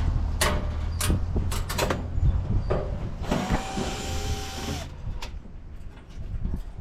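Sharp metal clanks and knocks from hand tools and sheet-metal panels while an old appliance is taken apart for scrap. About halfway a hissing whir runs for a second or two and then stops.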